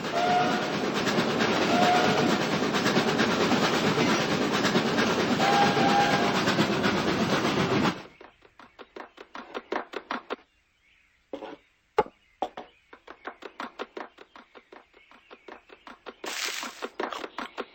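Model steam train sound effect: a loud chuffing rush with three short whistle toots for about eight seconds, which cuts off abruptly. Then comes quieter rapid clicking of wheels on the track, about five clicks a second, with a short pause partway through.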